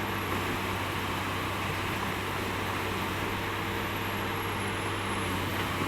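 Excavator diesel engine, the swapped-in Isuzu 6BG1, running steadily with an even, unchanging hum.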